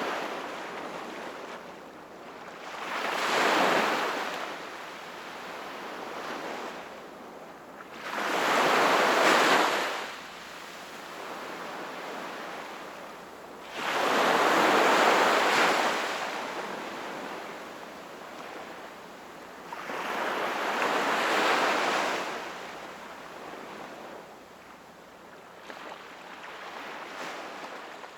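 Sea waves breaking and washing up on the shore, four larger breaks about six seconds apart, each a swelling hiss that fades back, with a smaller one near the end.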